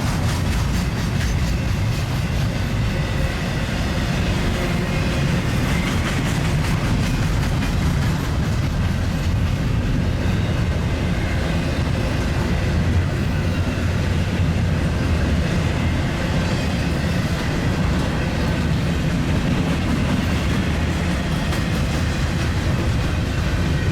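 Union Pacific double-stack container train rolling past, a steady loud rumble of its wheels on the rails.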